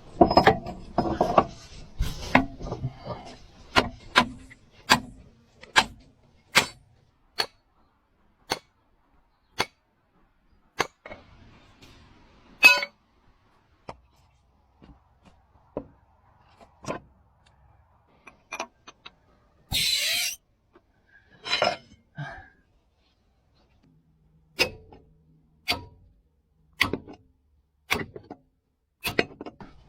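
Hammer strikes driving a chilled steel track pin into a crawler tractor's track, about one blow a second with a few short pauses, around thirty blows in all. A brief hiss sounds about twenty seconds in.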